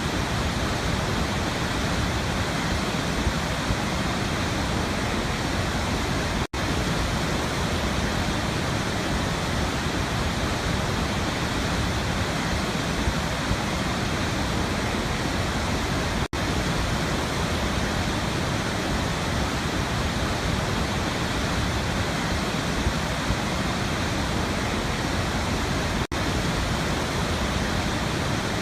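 Waterfall: a steady, full rush of falling water, broken by three split-second dropouts about ten seconds apart.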